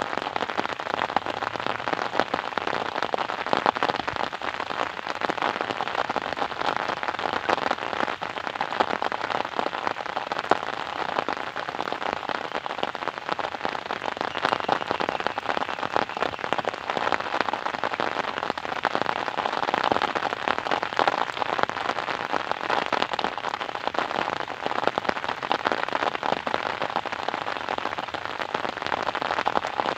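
Steady rain, with dense patter of drops hitting a surface.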